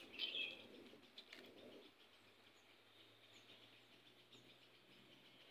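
Faint bird chirps in quiet open-air background, one short louder chirp just after the start, with a few faint ticks about a second later.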